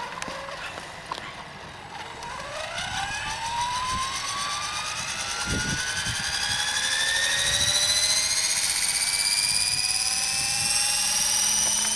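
Electric RC helicopter (eSky Belt CP with a four-blade rotor head) spooling up from the ground: the brushless motor and gear whine, with rotor sound, rises steadily in pitch and loudness from about a second and a half in, then climbs more slowly over the last few seconds.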